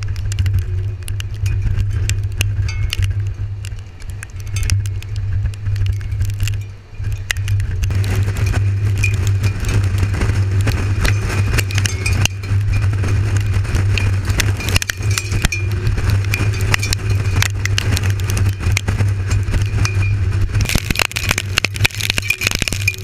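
Road and engine drone inside a moving vehicle's cabin, steady and low, with many small ticks and rattles throughout. The noise grows fuller about eight seconds in.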